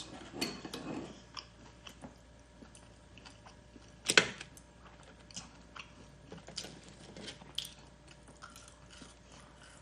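A person chewing crunchy Korean spicy garlic fried chicken close to the microphone. Soft, scattered chewing clicks, with one loud, sharp crunchy bite about four seconds in.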